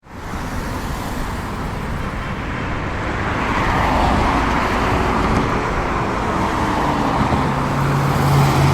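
Steady road traffic noise that starts abruptly, with a low hum joining about seven seconds in.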